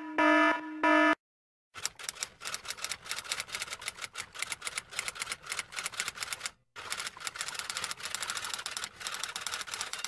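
Rapid, uneven typing clatter like typewriter keys, in two runs with a short break about two-thirds of the way through. It opens with two short electronic beeps.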